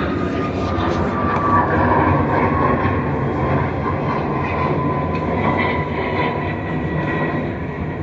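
A vehicle running steadily with a deep rumble, and a whine that slowly falls in pitch.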